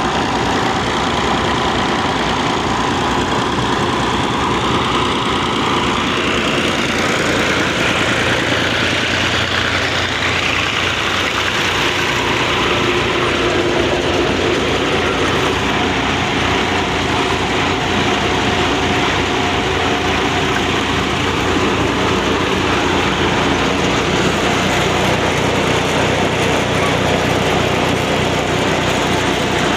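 Al-Ghazi diesel tractor engine running steadily, driving a wheat thresher, with an even mechanical hum throughout.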